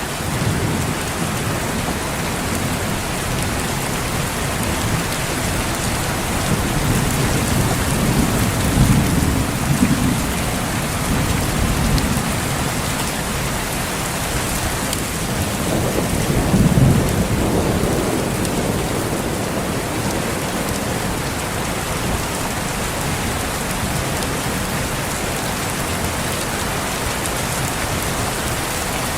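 Steady rain falling, with low rolls of thunder: one swelling about a third of the way in and a shorter one a little past halfway.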